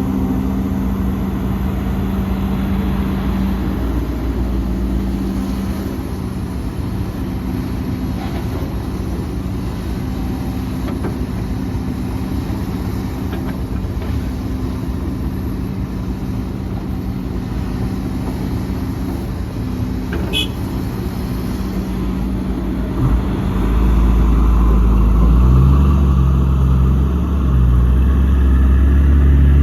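Diesel engines of earthmoving machinery running steadily. About 23 seconds in, a deeper, louder engine comes in and holds to the end.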